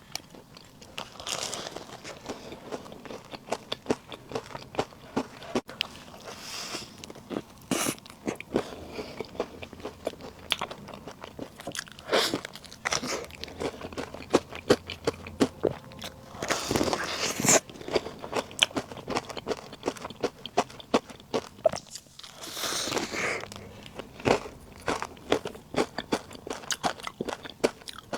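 Close-miked eating of puff snacks: chewing with many small crunching, crackling clicks, and a louder bite roughly every five seconds.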